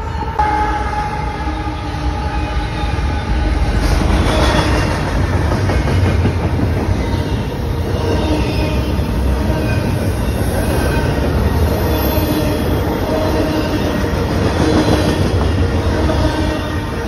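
Freight train passing close by: diesel locomotives run past, then double-stack container cars roll by with steady wheel rumble and clatter on the rails. It gets louder about four seconds in, with short wheel squeals here and there.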